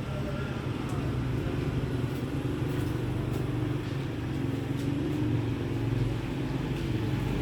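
An engine running steadily with a low rumble, and faint light ticks over it.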